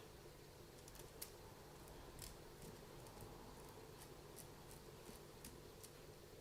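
Near silence with faint, irregular small clicks and taps from handling the small parts of an RC car differential, about eight over a few seconds.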